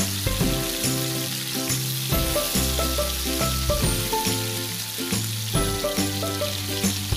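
Whole sardines shallow-frying in hot oil, with a steady crackling sizzle. Background music with a bass line plays along with it.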